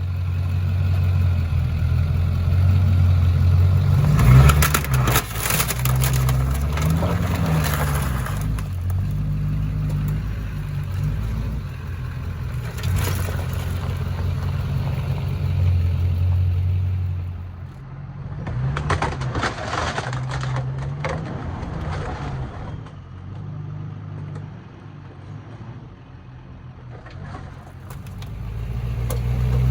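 Lifted 2003 pickup's LB7 Duramax 6.6-litre V8 turbodiesel running under load, its engine note rising and falling as it is revved. Several harsh noisy bursts sound over it, the loudest a few seconds in and again about twenty seconds in.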